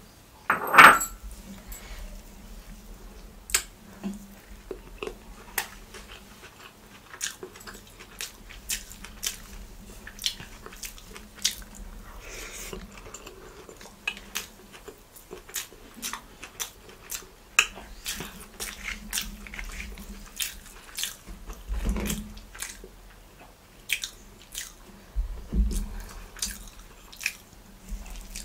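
Close-miked eating sounds of kothu parotta eaten by hand: chewing with many short wet clicks and mouth smacks, and fingers working the food. There is one loud sharp sound about a second in and two dull thumps near the end.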